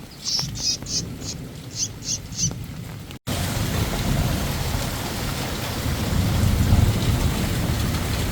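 A frog calling in a run of short, high chirps, about six in two and a half seconds. After a sudden break, steady rain with a low rumble underneath.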